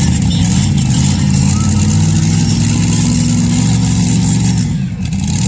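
Big farm tractor's diesel engine running loudly at a steady pitch, with slight rises and falls in speed.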